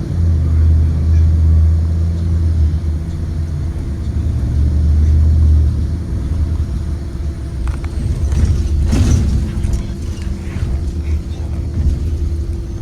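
Ride inside a 2023 Blue Bird Vision school bus under way: its Ford 7.3L gasoline V8 and drivetrain make a heavy low rumble that swells and eases. There is a brief hiss about nine seconds in.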